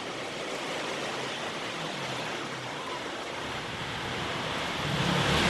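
Heavy rain pouring down in gusty wind: a steady hiss that swells slightly toward the end.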